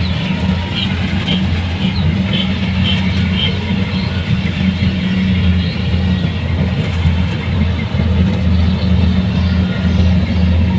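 Diesel engine of a Kubota rice combine harvester running steadily, a loud even low drone.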